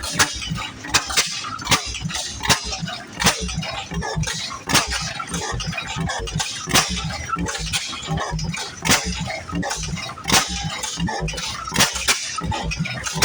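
An old stationary engine running with a low rumble and clatter, broken by sharp metallic clanks about once a second at uneven intervals.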